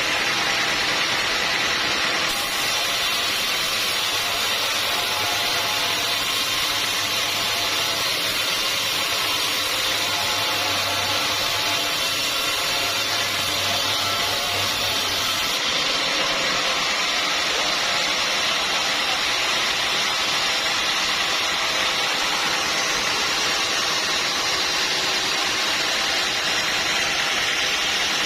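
Sawmill running steadily, a loud engine-driven saw noise. A low hum comes in about two seconds in and drops out at about fifteen seconds.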